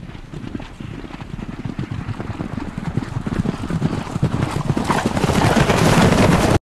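A running creature's galloping footfalls, a fast dense patter that grows steadily louder and cuts off abruptly near the end.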